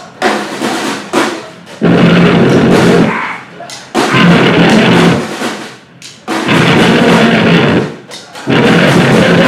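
Live noise-grind band playing stop-start blasts: very loud, dense walls of drums and distorted noise lasting a second or two each, four times, broken by short gaps with scattered drum hits.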